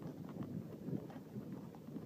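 Bicycle riding along a muddy trail: a steady low rumble of tyres and wind on the microphone, with scattered light clicks and rattles.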